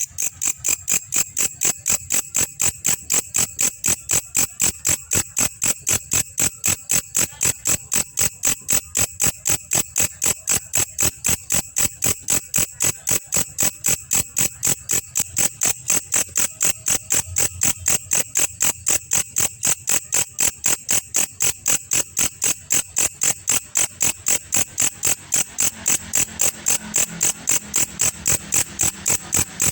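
Belalang kecek calling: a steady, even train of sharp, high chirps, about three a second.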